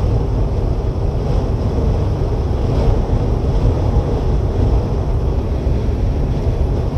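Steady low rumble of a tanker semi-truck driving at highway speed, engine and road noise heard from inside the cab, mixed with buffeting from strong wind gusts.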